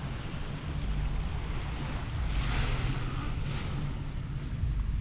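Small waves washing onto a sandy shore, with a wash swelling about two and a half seconds in, over a steady low rumble of wind on the microphone.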